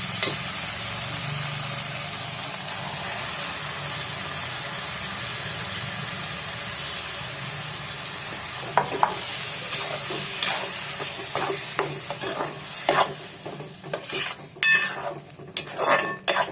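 Tomato puree sizzling as it hits the hot oil and spice masala in a pan, a steady hiss that slowly dies down. A spoon scrapes and knocks against the pan as it is stirred, the knocks growing more frequent near the end.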